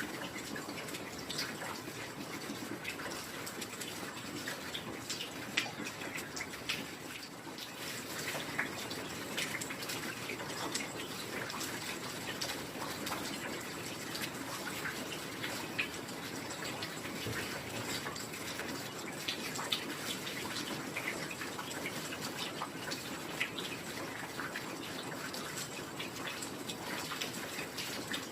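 Steady heavy rain: a continuous wash of falling water with a dense patter of individual drops, and now and then a louder single drip.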